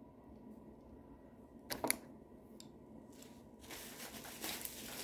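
Handling of pocket knives and packaging: a sharp click about two seconds in, then rustling from about three and a half seconds on.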